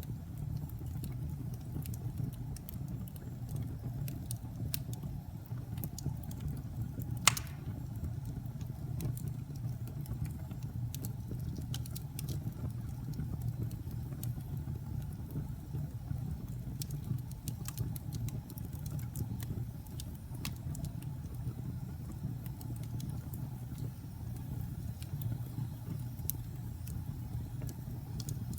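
Wood fire burning in a fireplace: a steady low rumble of flames with scattered sharp crackles, and one loud pop about seven seconds in.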